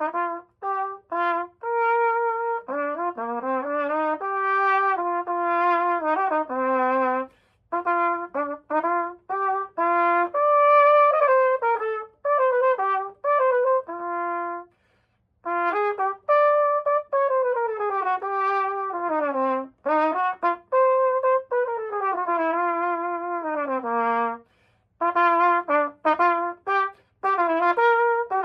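Besson Sovereign 928GD cornet playing a single melodic line of runs that climb and fall, in phrases broken by short pauses.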